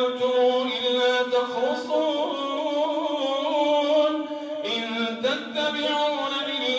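A man chanting Quran recitation in the melodic, drawn-out style of an imam leading prayer, holding long, ornamented notes.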